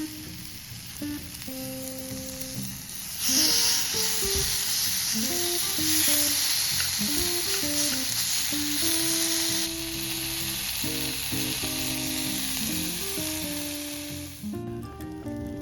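Food sizzling in hot fat as it cooks, starting suddenly about three seconds in, easing a little about ten seconds in and stopping near the end, over background music.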